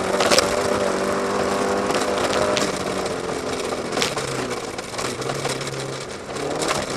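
BMW 1802's M10 four-cylinder rally engine running hard, heard from inside the car; its pitch steps down about four seconds in and it briefly eases near the end, with a few sharp clicks over it.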